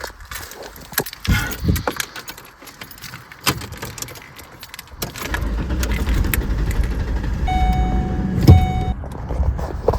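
Keys jangling and clicks and knocks of someone settling into a car. About halfway through, the engine starts and runs at idle. Near the end a steady electronic warning chime sounds for about a second and a half, broken once by a loud thump.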